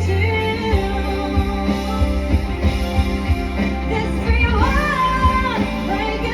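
A live band playing a song with a singer's voice carrying the melody over steady bass and regular drum hits.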